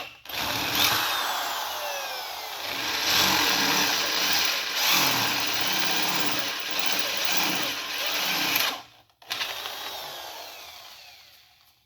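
Electric drill boring a pin hole into the thin cast-iron water jacket of a 331 Hemi engine block with a sharp new bit. It cuts steadily, stops abruptly about nine seconds in, then runs briefly again and winds down.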